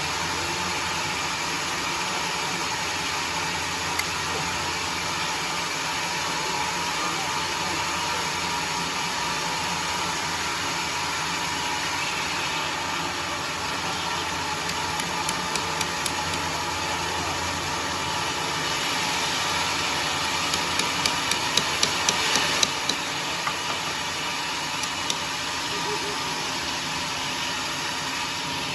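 Engine-driven homemade sawmill running steadily. A few sharp clicks come around the middle, and a quick run of about a dozen clicks follows about two-thirds through.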